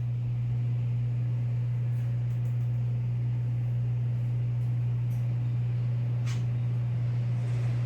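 Steady low electrical-sounding hum, unchanging throughout, with one brief faint high chirp about six seconds in.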